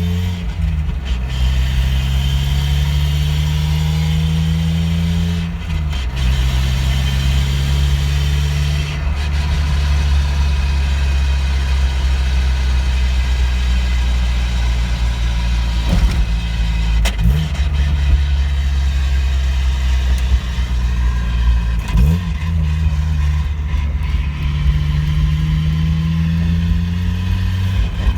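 Mazda NA Miata driving, its engine note climbing and dropping at gear changes, with a few sharp knocks partway through. Mixed in is an unidentified drivetrain noise that began after the differential was changed and is still there after a transmission swap.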